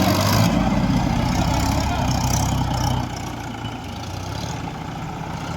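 Tractor diesel engine running steadily, its note easing off and dropping about three seconds in.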